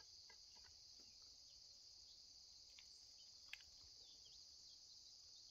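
Near silence except for a faint, steady insect chorus of crickets. A few faint ticks sound through it, the sharpest about three and a half seconds in.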